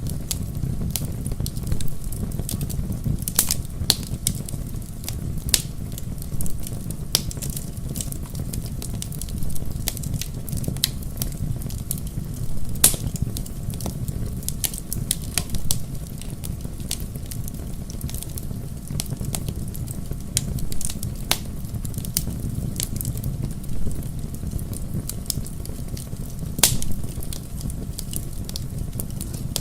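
Wood fire burning, with a steady low rumble and frequent sharp crackles and pops from the burning logs, scattered irregularly.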